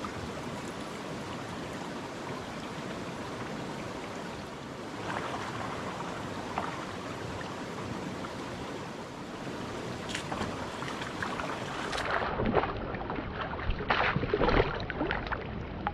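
Steady rushing of a rain-swollen creek. In the last few seconds it grows louder and more uneven, with scattered knocks and scuffs.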